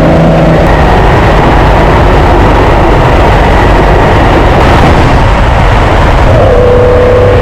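Nissan S30Z's modified L28 inline-six engine running loud and rough under load while driving, its note dropping slightly and settling about six seconds in.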